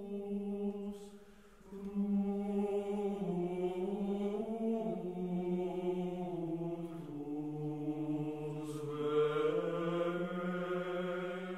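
Slow sung chant: held vocal notes that move step by step, with a short break about two seconds in.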